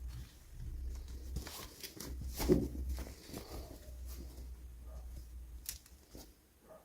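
Hands handling toy packaging and small dolls: scattered light clicks and rustles of plastic, with one louder knock about two and a half seconds in, over a low hum.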